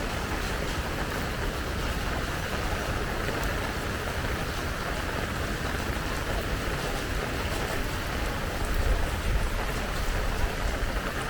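Steady rain falling, an even hiss with a low rumble underneath that swells briefly about nine seconds in.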